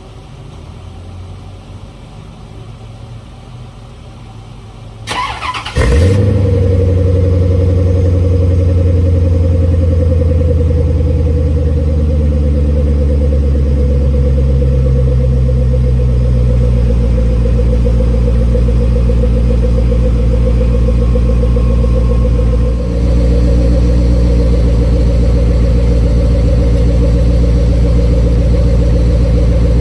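1993 Chevrolet C4 Corvette's V8 cold start: the starter cranks for about a second, about five seconds in, and the engine catches at once. It then runs at a steady cold idle, with a brief dip in level about 23 seconds in.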